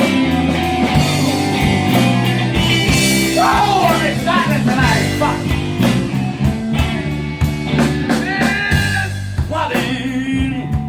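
Live blues band playing a slow blues: electric guitar lead with bent notes over bass and drums, building into the first verse.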